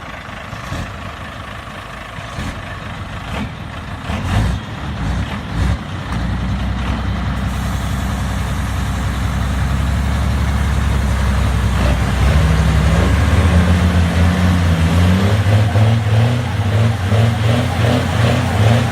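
Heavy vehicle engines, a Scania truck and a Ram 4x4 pickup, working under load to pull the truck out of mud. A few knocks come first, then a steady low engine drone that rises about halfway through and turns into a regular pulsing near the end.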